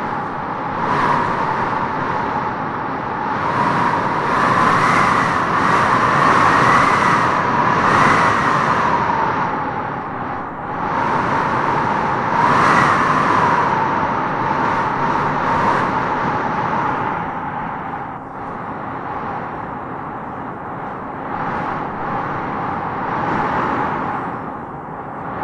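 Wind blowing in gusts, with a whistling howl that rises in pitch as each gust swells, strongest about five to eight seconds in and again around twelve seconds in.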